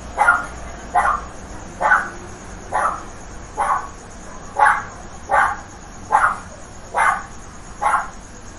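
A dog barking over and over at a steady rhythm, about one bark a second, with faint high chirping behind it.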